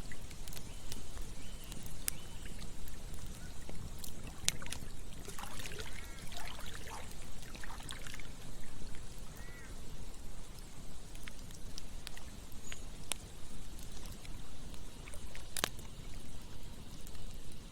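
A campfire crackling with scattered sharp pops, two of them louder, about four seconds in and near the end, over the steady rush of flowing stream water. A few short calls from an animal, likely a bird, come in midway.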